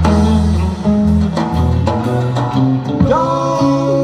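Live band music between sung lines: guitar notes over a walking bass line, with a long held note that wavers in pitch starting about three seconds in.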